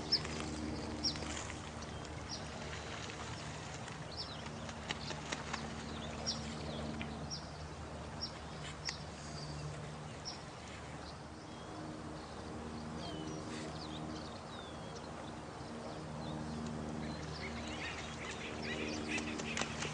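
Night nature ambience: a steady wash of running water, with short high chirps dotted through it, most of them in the first half, and low drawn-out animal calls that come and go.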